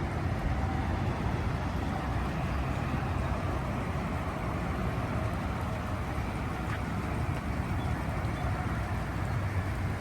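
Storm runoff water rushing steadily down a gully, a constant low rushing noise during heavy rain.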